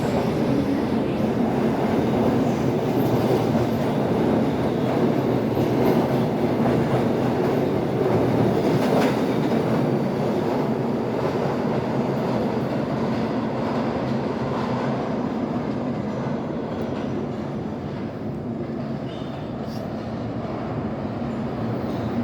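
New York City Subway R68 train running on the track, a steady, loud rail noise that eases slightly near the end.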